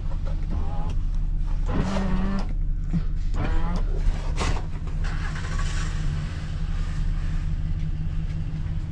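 Vehicle engine running steadily while driving, a continuous low drone, with a brief rush of hiss about five seconds in.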